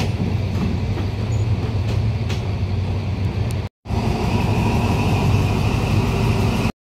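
Passenger train coaches rolling along the track, then after a sudden break a Thai railway diesel locomotive running in slowly, its engine giving a steady low drone. The sound cuts off abruptly near the end.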